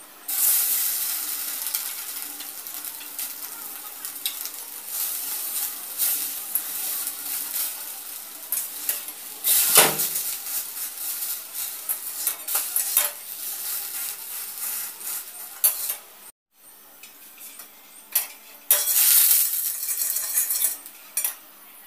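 Egg-dipped bread slices frying in a little hot oil in an aluminium kadai: sizzling, with clinks of a metal spatula against the pan. The sizzle flares up loudly about ten seconds in and again near nineteen seconds, as more slices go into the oil.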